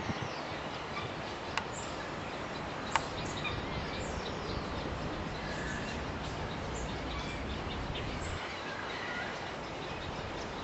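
Outdoor wetland ambience: a steady background hiss with scattered short bird chirps, and two sharp clicks early on.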